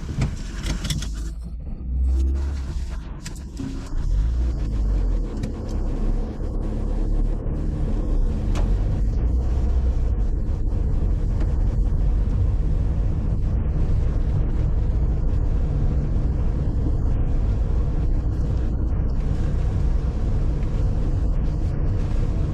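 Car being driven, with a steady low rumble of engine and road noise that grows louder about four seconds in and then holds.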